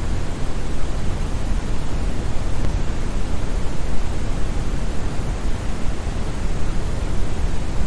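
Brown noise: a steady, even rushing hiss with most of its energy in the bass and little in the treble, like a distant waterfall.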